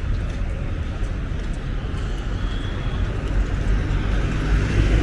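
Steady low rumble of a moving vehicle, growing a little louder near the end.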